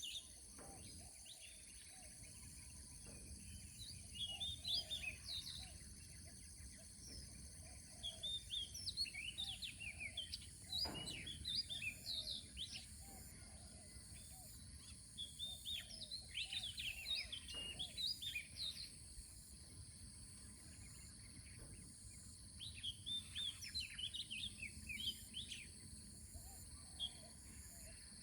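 Small birds chirping and twittering in rapid bursts that come and go, over a steady high-pitched drone and a low background rumble.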